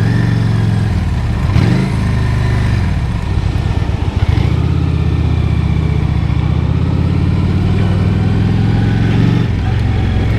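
Honda Shadow 750 V-twin motorcycle engine running under way, its pitch rising and falling about two seconds in, then holding steady before shifting again near the end, heard through a microphone inside the rider's helmet.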